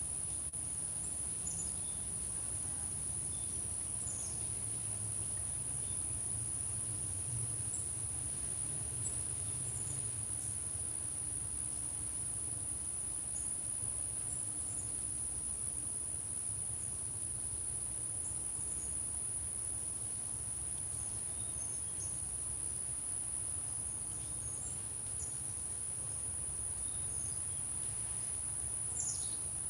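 Steady high-pitched insect chorus of crickets trilling without a break, with a few faint, short bird chirps scattered through it and a low steady rumble underneath.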